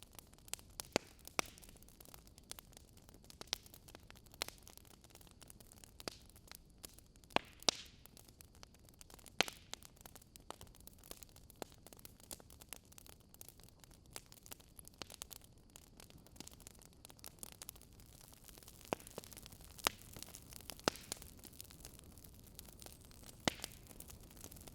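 Burning firewood crackling: irregular sharp pops and snaps over a soft steady hiss, a few pops louder than the rest.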